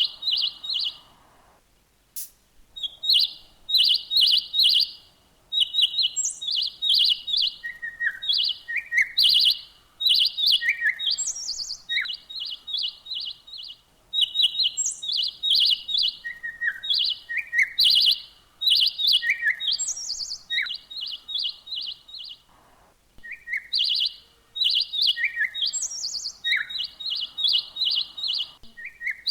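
Bird chirping in quick runs of short, high notes, with single higher and lower calls mixed in, breaking off briefly a few times.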